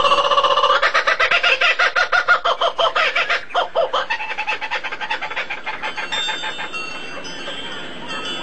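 A bird calling in a rapid chattering series of pitched notes, several a second, growing fainter over the second half.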